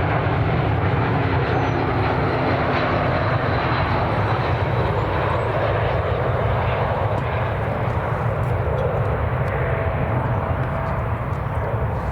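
Jet airliner engines running with a steady, loud roar and a faint high whine, easing off slightly near the end.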